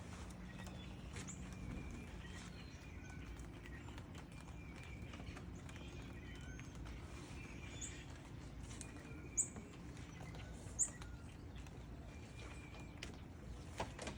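Birds chirping: many short, high calls scattered throughout, with two sharper, louder chirps about nine and eleven seconds in, over a low, steady background noise.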